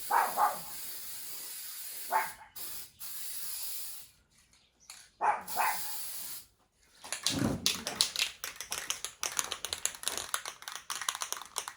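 Aerosol spray-paint can hissing in long bursts as paint is sprayed on, cut by short pauses. From about seven seconds in, a fast continuous rattling of the mixing ball as a spray can is shaken. A dog barks briefly a few times.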